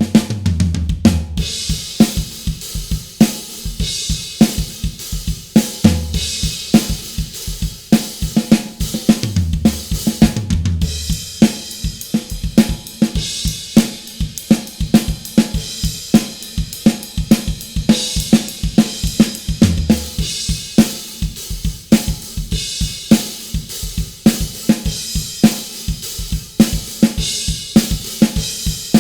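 Acoustic drum kit playing a steady groove of kick drum, snare, hi-hat and cymbals, close-miked with the Phenyx Pro PTD-10 drum mic set and EQ applied.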